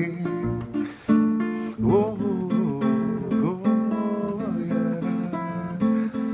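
Acoustic guitar strummed in a samba-pagode rhythm, with a voice singing a wordless vocalise over the chords a couple of times. The strumming drops out briefly about a second in.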